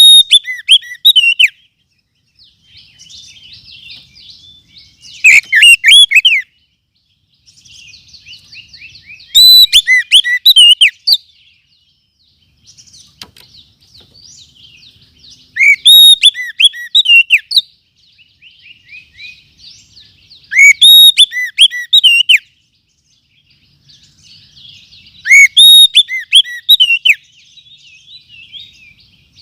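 Oriental magpie-robin song played as a recorded lure call. A loud phrase of sweeping whistled notes repeats about every five seconds, with softer chattering twitter between the phrases.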